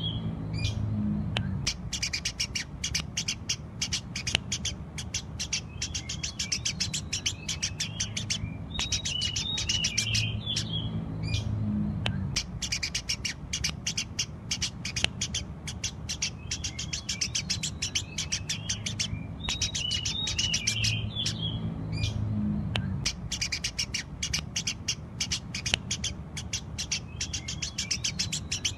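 Eurasian tree sparrows chirping rapidly and without pause, a dense stream of short high chirps, with a cluster of lower, more warbled calls about every eleven seconds.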